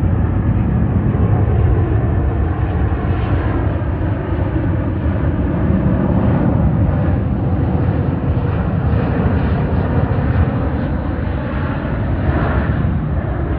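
British Airways Boeing 777-200ER arriving, its jet engines making a steady, loud rumble that sits low.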